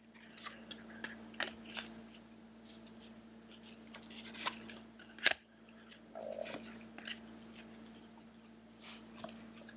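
Trading cards being handled: soft scraping and rustling of cards sliding against each other, with scattered light clicks and one sharper click about five seconds in, over a steady low hum.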